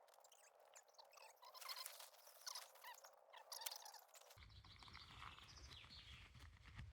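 Faint birdsong: small birds chirping and singing in quick short notes. A low rumble joins about four seconds in.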